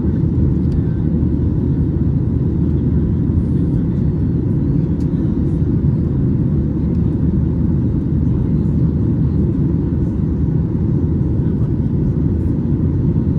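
Steady low rumble of a Boeing 737-800's engines and airflow heard inside the passenger cabin, running evenly without change.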